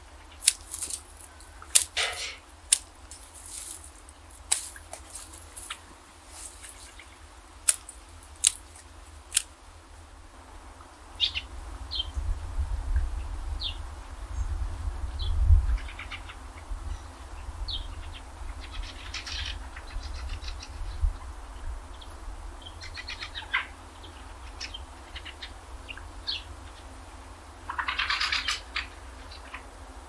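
Small birds chirping, with short calls and several brief trills. A series of sharp clicks comes in the first ten seconds, and a low rumble runs through the middle.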